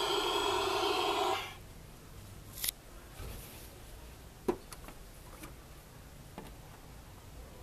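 Mattel Barbie toy airplane's engine sound, a steady pitched hum that cuts off suddenly about a second and a half in. A few light plastic clicks follow.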